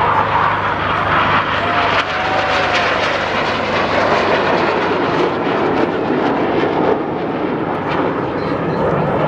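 Aircraft engine noise from a fixed-wing aircraft in flight, loud and steady.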